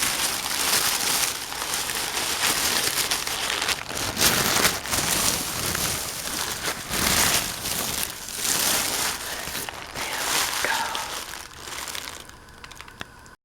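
Sandwich wrapper paper crinkling and rustling as a Subway sandwich is unwrapped and handled, dying down near the end.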